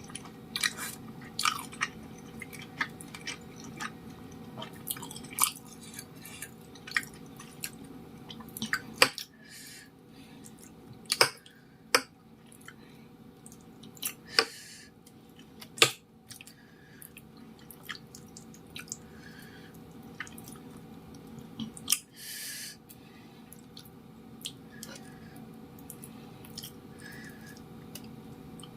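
Close-miked chewing of chewy tapioca-starch cilok balls: irregular wet mouth clicks and squishes, a few louder ones in the middle, with a brief hiss about 22 seconds in.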